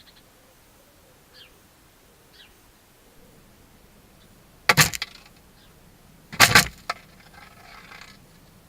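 Two loud clattering knocks about a second and a half apart, over a faint background.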